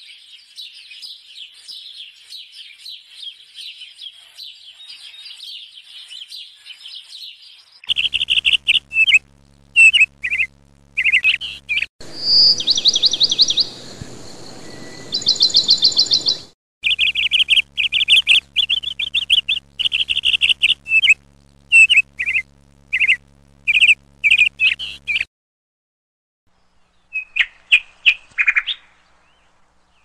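Birds calling: a dense, high twittering chorus, then loud, sharp calls repeated in quick series with a couple of rapid trills between them. The calls stop a few seconds before the end, and one last short run of calls follows.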